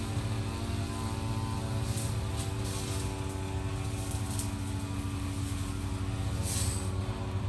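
A steady droning hum from a motor or engine, holding one pitch, with a few brief high-pitched sounds over it.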